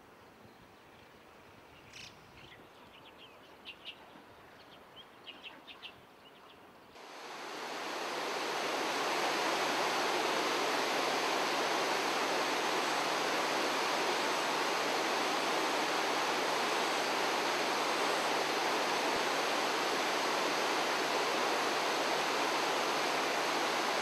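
A few faint, short bird chirps. Then, from about seven seconds in, a steady, even rush of flowing water swells up and holds, much louder.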